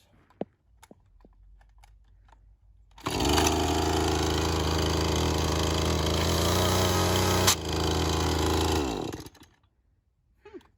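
Husqvarna chainsaw running at a steady high speed for about six seconds with a clip-on sharpener fitted on the bar, then winding down with a falling pitch. A single sharp click cuts through near the end of the run.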